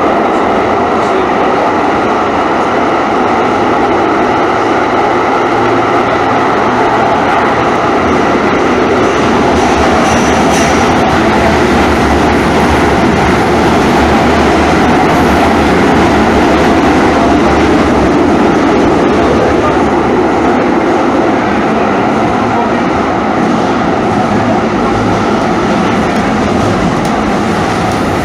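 Calgary Transit CTrain light-rail car running along the track, with a steady rumble and rush of wheels on rail that swells slightly in the middle and eases a little near the end.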